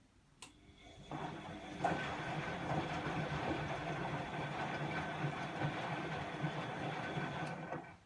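Bosch WAE24162GB03 washing machine during a rinse cycle: a click about half a second in, then the motor turns the drum for about seven seconds with a steady whine and a churning beat, and stops abruptly.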